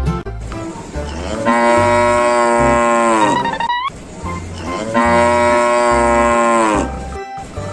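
A cow mooing twice, each moo a long call of about two seconds that sags in pitch as it ends, over background music with a steady bass beat.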